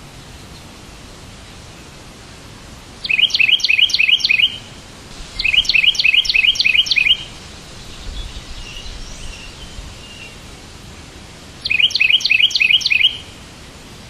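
A songbird singing three short phrases, each a quick run of about six repeated high chirps, over a steady background hiss.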